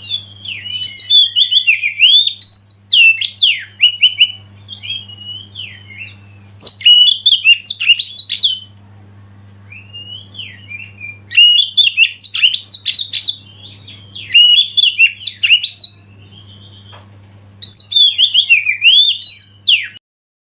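Oriental magpie-robin singing loud, rapid, varied whistled phrases in bursts of a few seconds with short pauses between, over a steady low hum.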